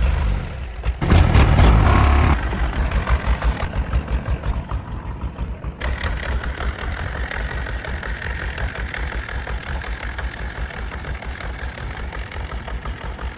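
Truck engine revving briefly about a second in, then settling into an idle with a rapid pulsing beat, running after repair.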